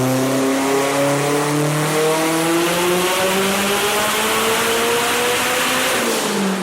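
Turbocharged Subaru STi flat-four engine in a long full-throttle pull, its pitch climbing steadily for about six seconds, then dropping as the throttle is let off near the end.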